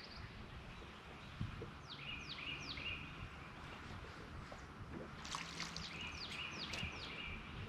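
A songbird singing a short phrase three times over, each a quick falling whistle followed by a lower held note. The phrase comes about two seconds in and again near the end, with a few sharp clicks just after five seconds in.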